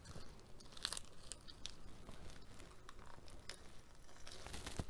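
Faint, irregular crunching and wet clicks of a person biting and chewing a crisp lettuce-leaf wrap close to the microphone.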